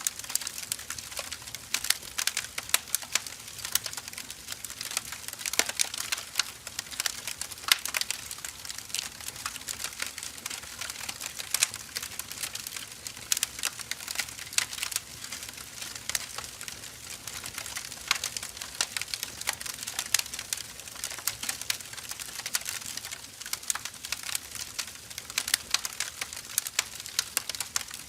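Burning firewood crackling and popping steadily, with dense irregular sharp snaps over a soft hiss of the flames.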